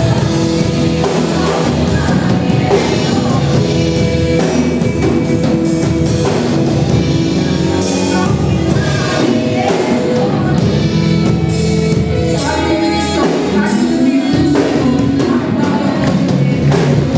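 Live worship band playing with singing, drums keeping a steady beat.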